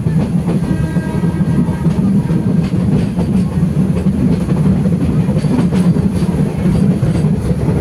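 Heritage train running along the track, heard from on board: a steady, loud rumble of wheels on rail.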